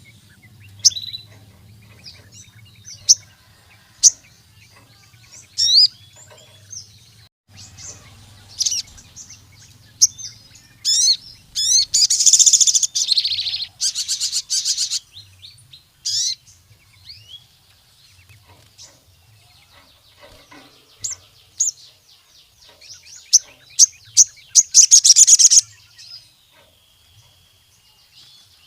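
Sogon sunbird in full song: sharp high chirps and short whistles, broken by fast rattling trills about eleven seconds in and again a few seconds before the end.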